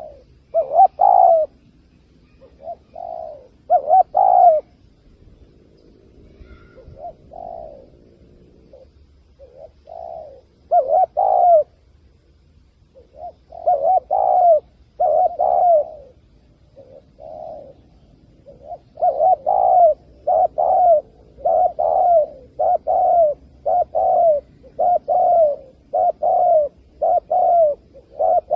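Spotted dove cooing. The coos come in irregular singles and pairs at first, then from about two-thirds of the way in as an even run of roughly one coo a second.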